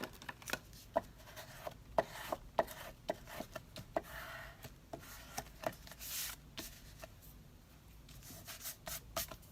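Paper being handled and rubbed down by hand on a craft table, with scattered light taps and clicks and a couple of brief swishes.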